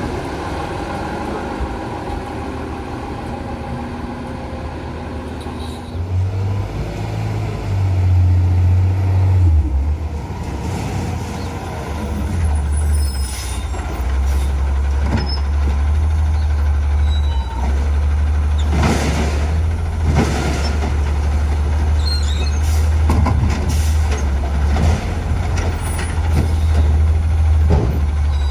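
Autocar garbage truck's diesel engine running, revving up about six seconds in and holding at higher revs, with several short sharp hisses or clanks in the second half, typical of a truck's air brakes.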